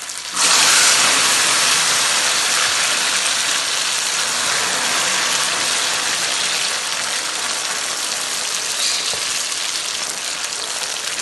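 Slices of taro root (arvi) tipped into hot oil in a wok, setting off a sudden loud sizzle about half a second in that goes on steadily as they fry, easing slightly toward the end. The sizzle is the moisture in the salted slices boiling off in the oil.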